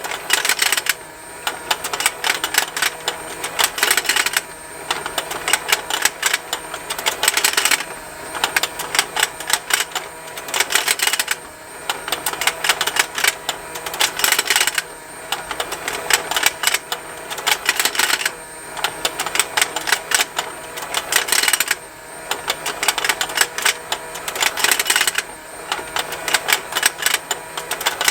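Plastic fishing-game toy running: its small motor turns the rotating pond with rapid, continuous plastic ticking and snapping, swelling into a louder stretch of clicks about every three and a half seconds.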